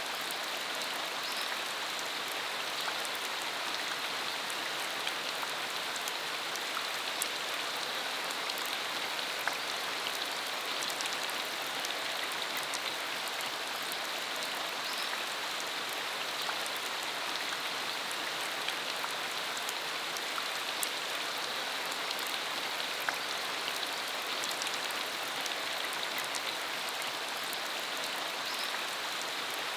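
Steady rain falling on a dirt country road: an even hiss with many scattered sharper ticks of single drops.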